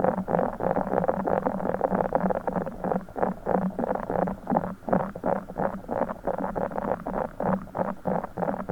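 A broken Orbeez water-bead ball being squeezed and kneaded, with a rapid, continuous run of wet squishing and crackling.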